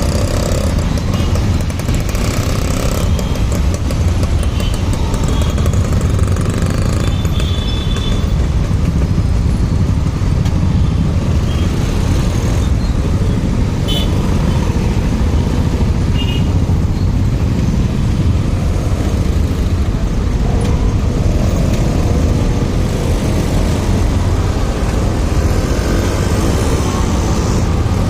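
Motorcycle riding along a road in traffic: a steady low engine and road rumble, with a few brief high tones.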